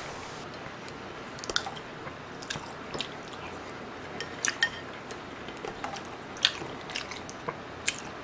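Close-miked eating: wet chewing of creamy bacon carbonara pasta, with small sharp clicks and smacks scattered throughout and a few louder ones.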